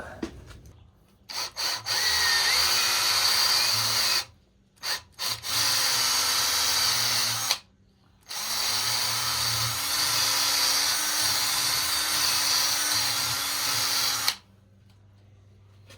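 Drill spinning a valve seat grinding stone against a cylinder head's valve seat, in starts and stops: two quick blips, then runs of about two, two and six seconds. It is a gritty, high hiss over a steady motor whine.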